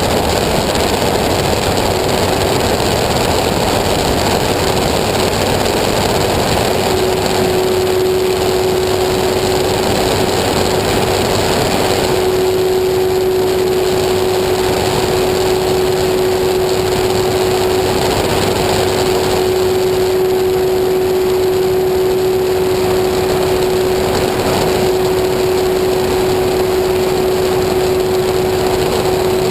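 Small engine of a homemade light aircraft running steadily at a constant speed, with a steady hum coming in about a quarter of the way through and holding.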